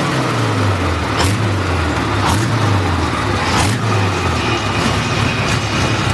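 Large motorcycle engine running with a low, wavering drone, broken by three short whooshing bursts; the drone changes near the end.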